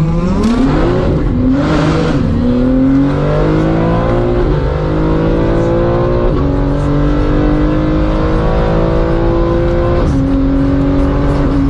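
Turbocharged performance car accelerating hard through the gears in a roll race. The engine note climbs steadily, dropping suddenly in pitch at each upshift, about three times.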